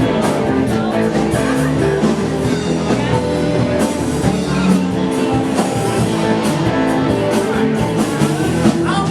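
Live blues band playing, with guitar over a steady beat.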